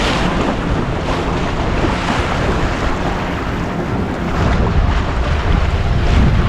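Wind buffeting the microphone over water washing against the hull of a small sailboat.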